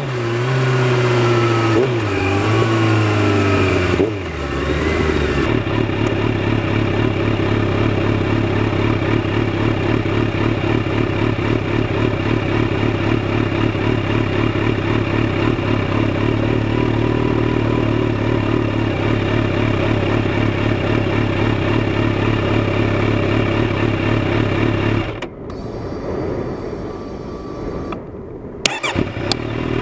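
Kawasaki Z900RS inline-four running through a Holeshot Lextek header, heard from a mic under the seat while riding. The revs rise and fall over the first few seconds, then the engine holds a steady cruise for about twenty seconds. Near the end it backs off and quietens, then picks up again.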